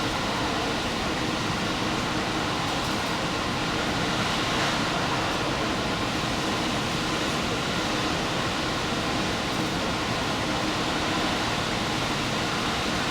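Steady running noise from inside a moving diesel express train: an even rumble and rush of the engine and wheels on the rails, with no distinct clicks or horn.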